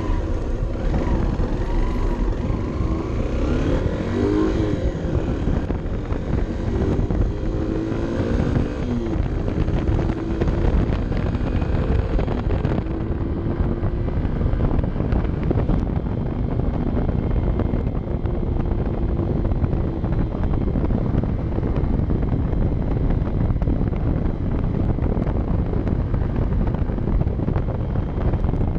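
Honda CB 125 F's single-cylinder engine running on the move, its pitch rising and falling several times in the first dozen seconds, then holding steadier, with wind rushing over the microphone.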